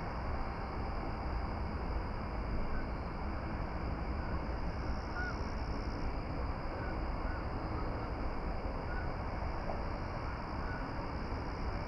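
Steady outdoor noise, like wind rumbling on the microphone, with a handful of faint, short bird calls scattered through it.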